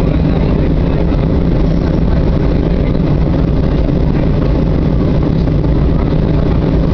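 Boeing 737-800's CFM56 jet engines heard from inside the passenger cabin: a loud, steady low rumble and roar with no break or change in pitch.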